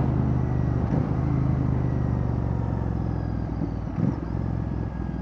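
Royal Enfield Bear 650's parallel-twin engine running through a Red Rooster Performance aftermarket exhaust while riding, a steady low note that eases off a little near the end.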